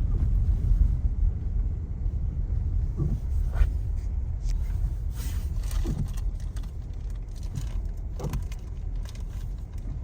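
Car driving, heard from inside the cabin: a steady low road rumble that gradually gets quieter, with a few scattered short clicks.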